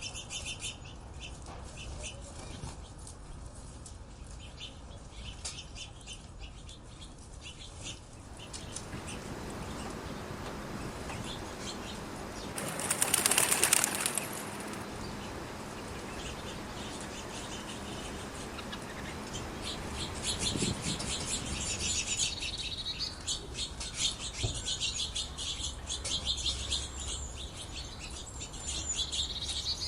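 Small birds chirping in quick, high, repeated calls, with a louder spell of wing flapping about 13 seconds in. The chirping thins out in the middle and grows busy again over the last third.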